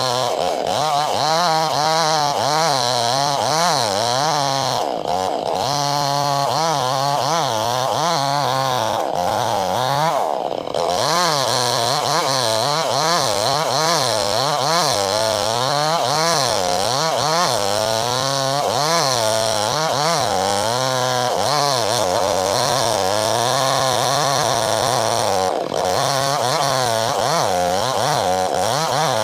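Chainsaw running hard while cutting lengthwise through wood. The engine pitch wavers up and down throughout as the load changes, with a few brief dips where the throttle eases.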